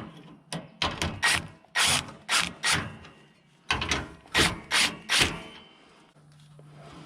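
Hand ratchet wrench clicking in quick strokes, snugging a bolt down, in two runs with a short pause about three seconds in.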